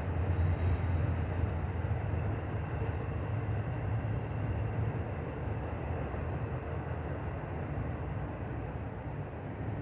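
Passing train: a steady low rumble that eases slightly toward the end.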